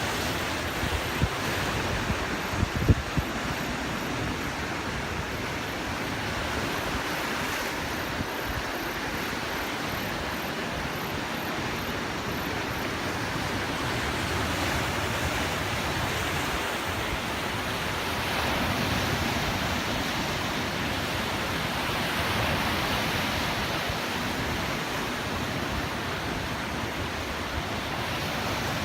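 Sea surf washing against the shore in a steady wash that swells and ebbs slowly, with wind buffeting the microphone in the first few seconds and a single sharp knock about three seconds in.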